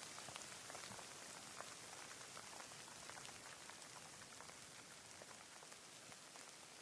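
Faint, steady rain: an even hiss with close individual drops striking irregularly throughout.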